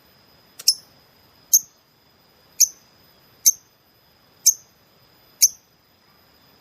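A small songbird giving six short, sharp, high-pitched chirps, evenly spaced about one a second, over a faint steady high tone.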